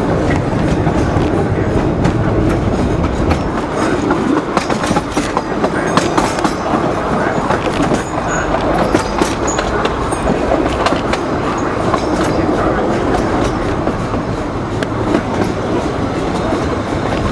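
Narrow-gauge Disneyland Railroad train car running along the track: a steady rumble of the wheels, with irregular clicks and clacks over the rail joints, busiest in the middle.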